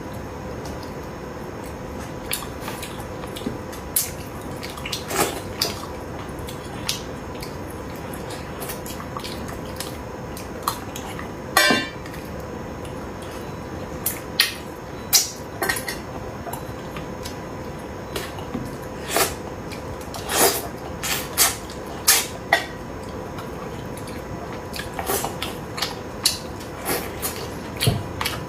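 Eating utensils clicking and tapping against a bowl and plate while eating braised fish: scattered sharp clicks at irregular intervals, over a faint steady hum.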